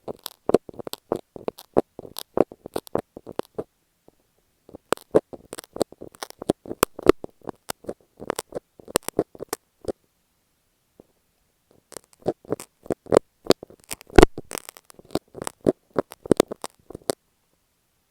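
Close, crackly taps and scratches on masking tape stuck over an earphone microphone. They come in three spells of several seconds each, with short quiet gaps between.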